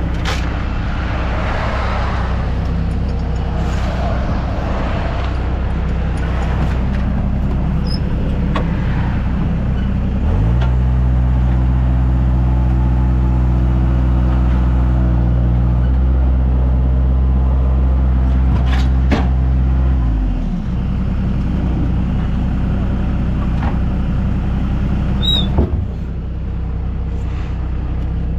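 A heavy engine running steadily at idle, revved up about ten seconds in, held there for about ten seconds, then settling back to idle. A couple of short knocks come near the end.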